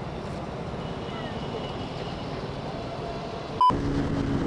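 Motorcycle engine running steadily under wind noise on a helmet-mounted microphone, with one sharp click near the end.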